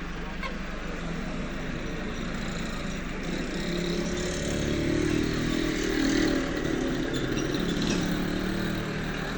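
A motor engine running, swelling louder around the middle and easing off near the end.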